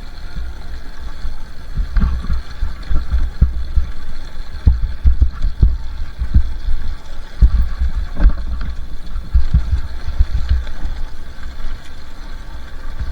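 Two-stroke dirt bike running along a trail, its engine faint under loud, uneven low thumps and rumble from the ride.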